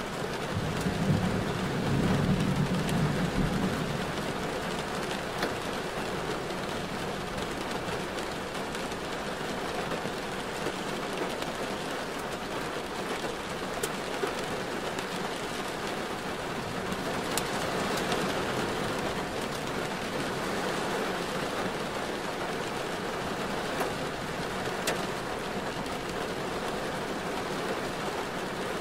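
Steady rain on a car while driving, with a low rumble in the first few seconds and a few scattered sharp ticks of drops striking.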